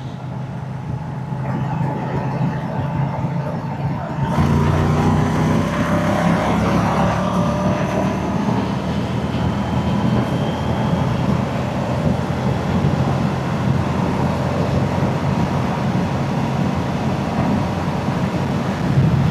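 Moto Guzzi transverse V-twin motorcycle engine and exhaust under way, running at low revs, then about four seconds in the throttle opens and the note rises through the revs before settling into a steady cruise.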